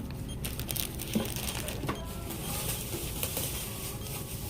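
Checkout counter sounds: scattered light clicks and rustling over a steady low hum.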